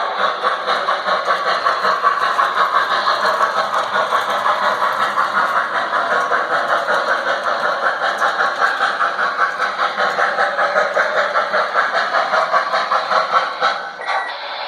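Model train running on the layout, with a steady quick pulse of about four beats a second; it drops away briefly near the end.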